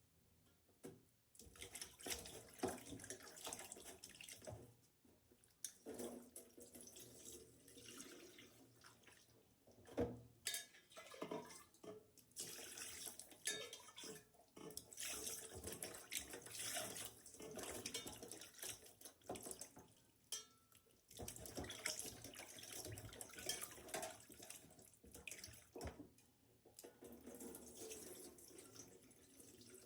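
Water splashing and sloshing in irregular bursts, with occasional knocks, as something is washed by hand in water.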